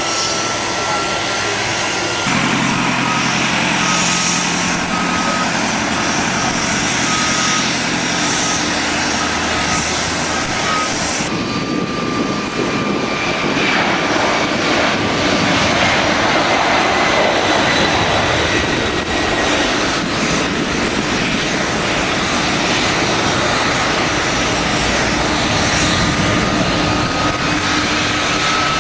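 Jet airliner engines running on the airfield: a loud, steady rush of noise with a thin high whine that drifts slowly in pitch. The sound changes abruptly about 2 seconds and 11 seconds in.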